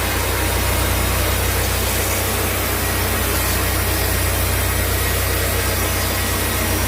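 Sawmill machinery running steadily: a constant low hum under an even hiss.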